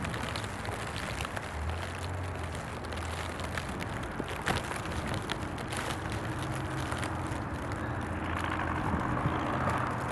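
A vehicle engine running steadily under a haze of wind and street noise, with scattered faint clicks.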